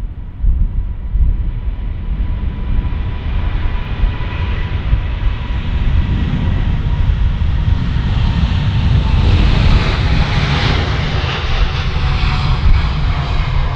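Jet airliner's engines running as it passes, building to their loudest about ten seconds in over a heavy low rumble, with a thin whine that slowly falls in pitch.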